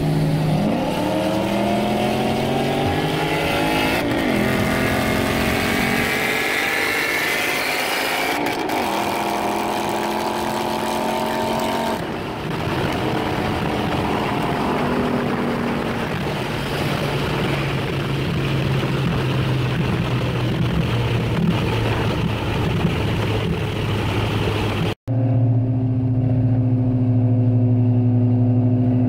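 Car engines at full throttle in a highway roll race, heard from inside a following car: the engine note climbs in pitch and steps down at gear changes about every four seconds, then gives way to a steady rush of engine, tyre and wind noise. Near the end, after a brief cut to silence, an engine holds a steady note at cruising speed.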